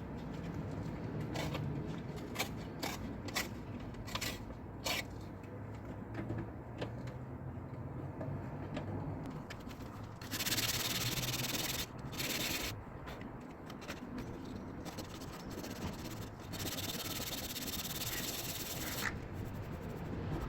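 Sandpaper rubbed by hand over a car's steel body panel to scour off rust. It rasps in strokes, with a few sharp clicks in the first seconds and louder, harder stretches of scrubbing around the middle and near the end.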